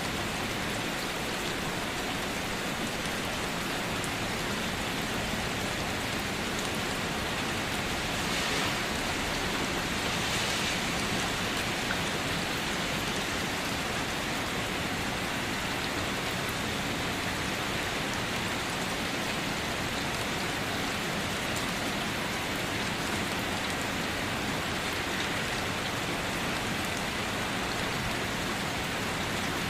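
Steady rain falling, an even hiss that swells briefly twice around eight and ten seconds in.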